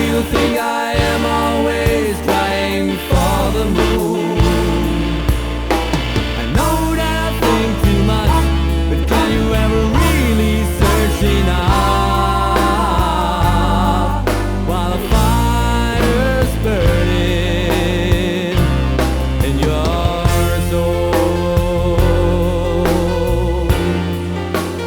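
Pop-rock band recording in an instrumental passage between vocal lines: a lead melody that bends and wavers in pitch over bass and drums.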